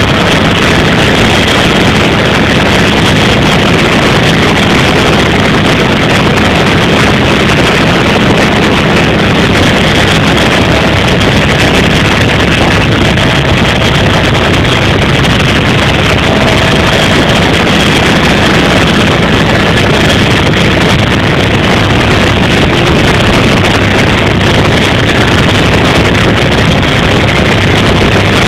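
Helicopter in flight: a steady, loud drone of engine and rotor noise.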